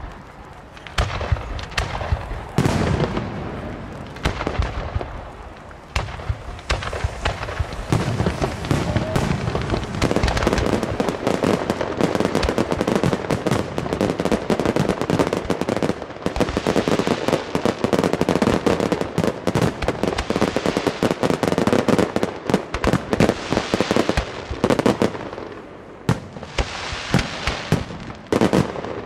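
Aerial fireworks going off: separate bangs at first, then a dense, continuous barrage of bursts and crackle through the middle, thinning out near the end.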